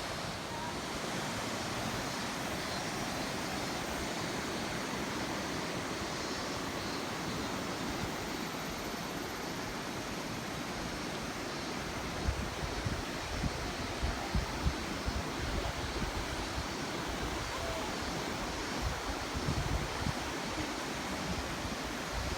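Tama River rushing in a steady wash of water noise, the river running high. From about halfway, gusts of wind buffet the microphone.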